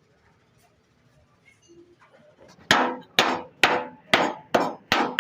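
Panel-beating hammer striking a car's sheet-metal body side, about half a dozen sharp blows roughly two a second starting a little over halfway in, each with a short metallic ring.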